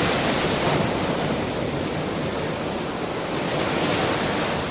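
Ocean surf: the steady rushing hiss of waves washing in, easing off after the first second and swelling again near the end.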